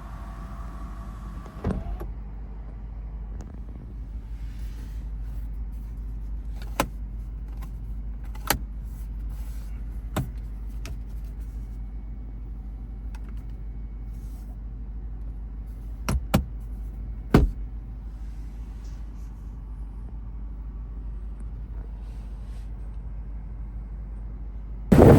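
A steady low rumble inside a car, with a few sharp clicks several seconds apart, like switches or controls being pressed. A short motor whine at the very start is like a power window moving.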